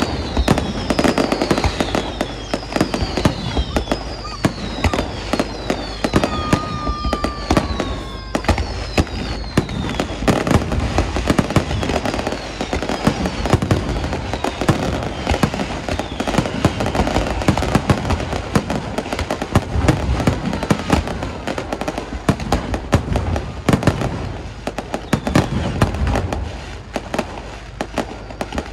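Fireworks display: a dense run of rapid bangs and crackling throughout, with many short falling whistles during roughly the first ten seconds.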